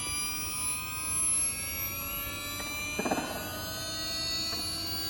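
Losi Promoto MX RC motorcycle's brushless electric motor whining, high and layered, its pitch drifting up and down with the throttle. A brief gritty burst comes about three seconds in.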